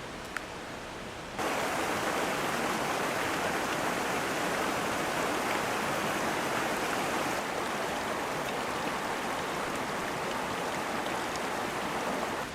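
Clear mountain stream flowing, a steady rush of water that cuts in abruptly about a second and a half in and drops away just before the end.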